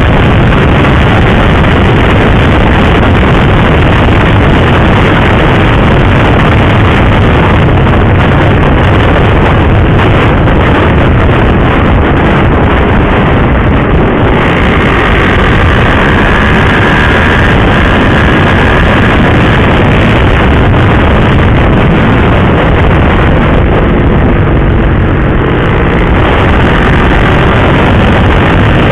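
Wind rushing over the microphone of a moving motorcycle, with the engine running underneath at riding speed. The loud, steady rush covers almost everything, and the engine pitch shifts slightly near the end.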